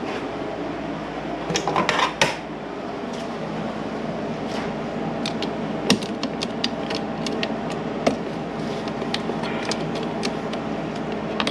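Hand tools and metal parts being handled under the hood: scattered sharp metallic clicks and clinks, a small cluster about two seconds in and a run of quick ticks around the middle, over a steady low hum.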